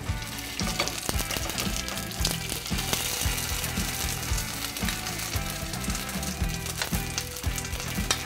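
Potato-and-tuna croquettes frying in hot olive oil in a frying pan, a steady sizzle with frequent crackles.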